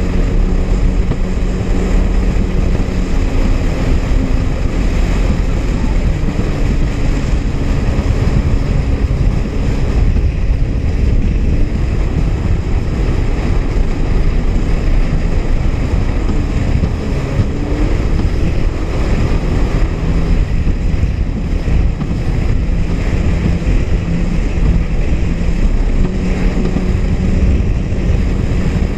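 Honda jet ski's four-stroke engine running under way, its pitch drifting up and down, with wind buffeting the microphone and water rushing against the hull.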